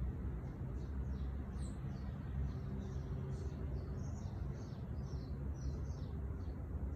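A songbird singing a long run of quick, high notes, over a steady low rumble of background noise.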